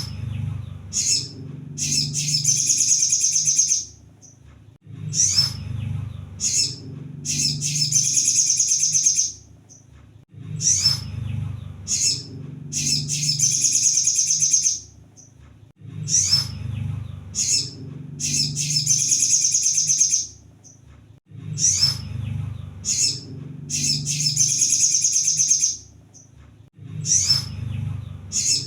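Crimson sunbird (kolibri sogon) song played as a loop. A high, fast twittering phrase of about three seconds repeats roughly every five and a half seconds, with shorter high notes between phrases and a low rumble of noise under each one.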